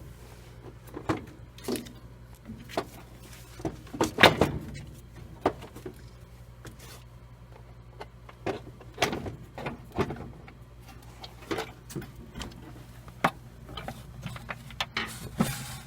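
Irregular clicks, knocks and scrapes of a screw being worked out of a washing machine's cabinet, with a louder clatter about four seconds in. A faint steady low hum runs underneath.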